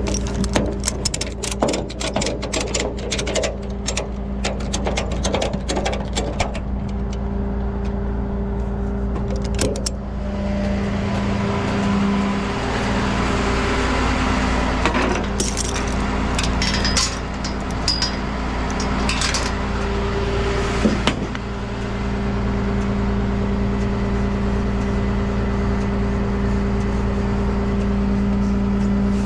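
A tow truck's engine idling steadily, with quick runs of metallic clicks and rattles for the first several seconds as ratchet straps are tightened on the load. A steady rushing noise joins about ten seconds in.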